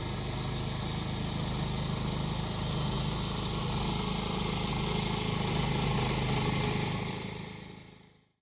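Small engine of a grass-cutting machine running steadily, with cicadas droning over it; the sound fades out near the end.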